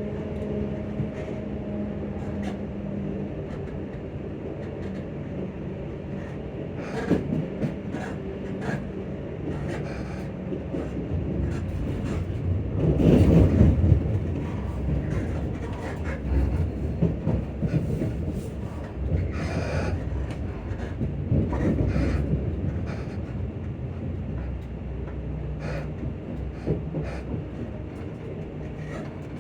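Inside a ScotRail Class 334 Juniper electric multiple unit running along: its traction motors hum with steady low tones that fade out a few seconds in and come back lower later, over the rumble and clatter of the wheels on the track, with a louder rumbling surge about halfway through.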